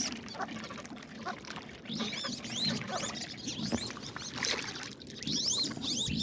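Penned ducks giving many short, high, thin whistled calls, rising and falling, over scattered light knocks and rustling.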